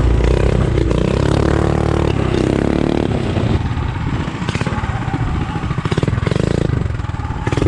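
Small single-cylinder mini bike engine running and revving up and down several times, with some rattling.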